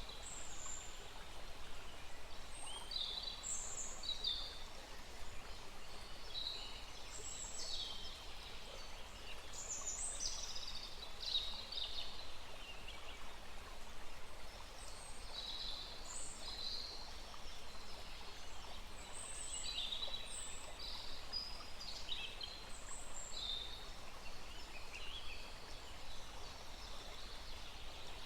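Many birds calling and singing in short chirps and phrases throughout, over the steady rush of a small forest stream.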